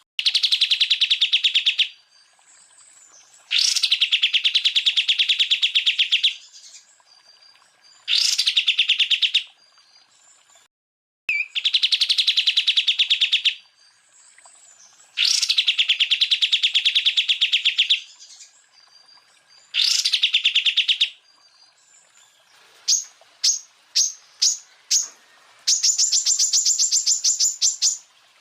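Cucak ijo (green leafbird) singing loud, rapid trilled bursts of one to three seconds each, repeated with short pauses between them. Near the end come five short, high notes, then a faster, higher trill.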